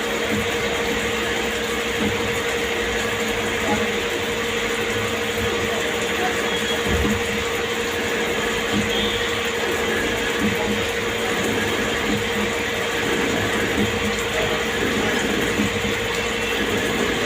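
A CNC lathe running steadily, with a constant mechanical hum holding a steady tone and continuous gear-like clatter throughout.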